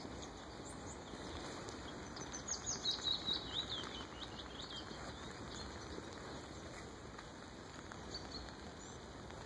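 A small songbird twittering in a quick run of high chirps from about two to four seconds in, over steady outdoor background noise.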